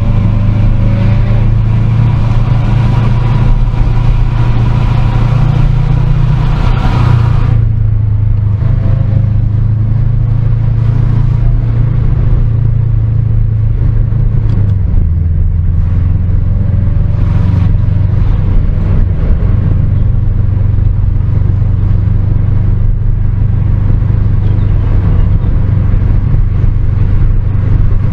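Car engine running steadily with a loud, deep drone. A higher rushing noise dies away about seven seconds in, and the engine note settles a little lower about halfway through.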